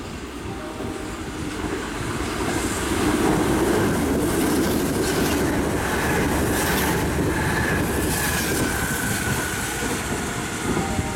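Kintetsu limited express train passing through a station at speed. A rumble and wheel clatter grow louder over the first three seconds and stay loud as the cars go by. A thin high tone slowly falls in pitch from about six seconds in.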